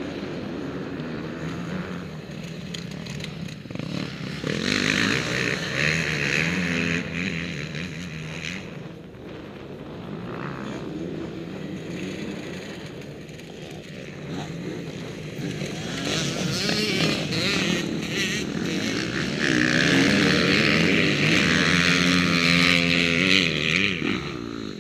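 Motocross bikes racing, engines revving up and down as they accelerate and shift, loudest about five seconds in and again over the last five seconds.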